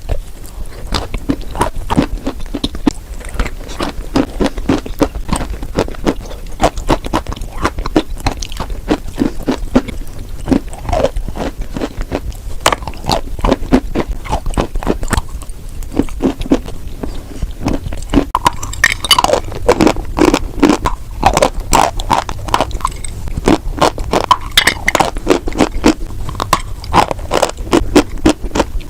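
White chalk being chewed and crunched close to the microphone: a dense, continuous run of crisp crackles and crunches, getting heavier and fuller about two-thirds of the way through.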